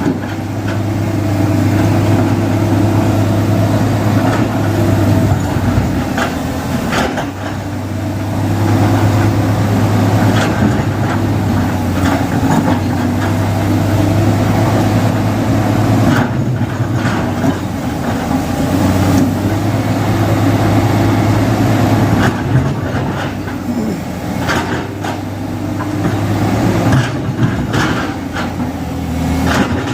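Heavy diesel construction-machine engine running steadily, with a few short knocks now and then.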